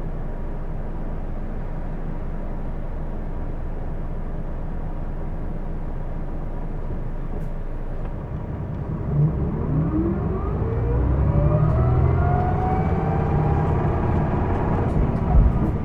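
Hino Blue Ribbon II city bus heard from inside the cabin: the engine runs steadily for about eight seconds, then the bus pulls away and accelerates, the engine getting louder with a whine climbing in pitch.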